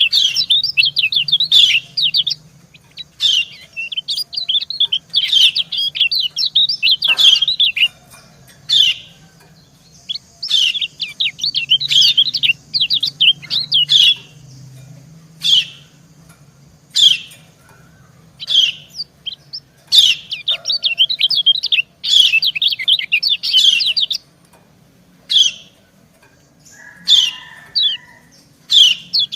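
Female lemon-bellied white-eye (kecial kuning) giving its 'ciak' chatter: fast runs of high chirps lasting a few seconds each, broken by single sharp notes. This is the call a hen uses to draw and excite males.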